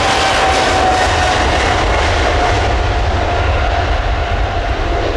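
Boeing 777-300ER's GE90-115B jet engines at takeoff power, a loud steady roar with deep rumble and a whining tone that falls slowly in pitch as the aircraft passes.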